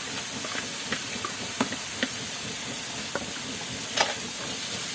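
Chopped greens sizzling in a wok over a wood fire, with a few short clicks of a plastic spatula against the pan, the loudest about four seconds in.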